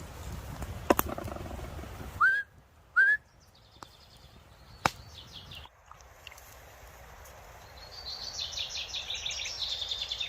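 Birds calling: two short rising whistled notes a couple of seconds in, then brief rapid trills, and a longer rapid high trill near the end. A low rumble fills the first two seconds.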